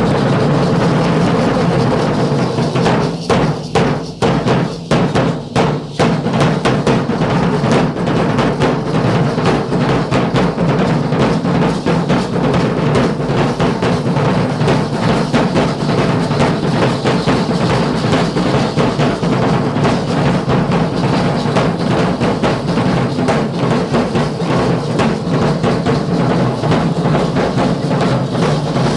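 Drums of a Guadalupana danza troupe beating together in a fast, steady rhythm. A few seconds in, separate heavy strokes stand out, then the beat turns rapid and dense.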